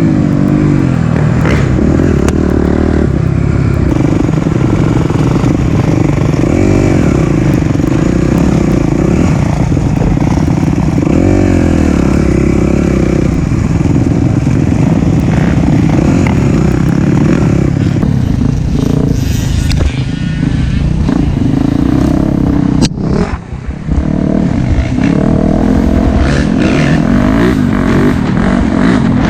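Four-stroke single-cylinder dirt bike engine under way on a trail, its revs rising and falling continuously with the throttle, with a brief throttle cut about 23 seconds in.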